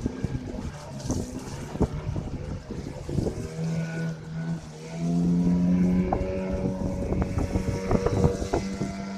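Motorboat engine running on the river, its steady note coming up about three and a half seconds in and getting louder from about five seconds, with wind buffeting the microphone.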